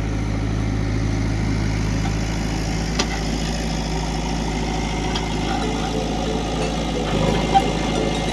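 Heavy diesel engine running steadily at low speed, with a sharp click about three seconds in and a short knock near the end.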